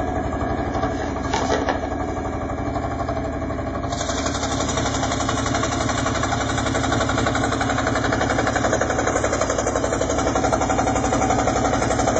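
Electric scroll saw running steadily, its blade chattering rapidly up and down as it cuts a wooden puzzle; the sound turns hissier from about four seconds in.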